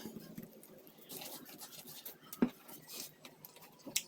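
A person biting and chewing boiled corn kernels off the cob: faint crunching and wet mouth clicks, with a sharper click about two and a half seconds in.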